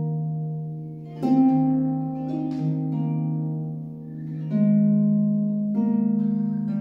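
Harp playing slow chords that ring on over a sustained low note, with a new chord plucked three times.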